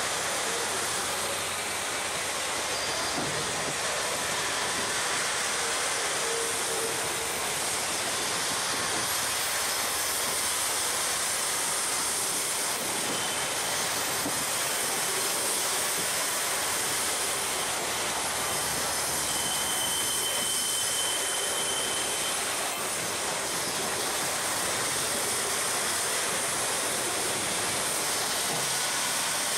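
Grain train hopper wagons rolling past at close range: a steady noise of steel wheels running on the rails. A brief high squeal comes in about twenty seconds in.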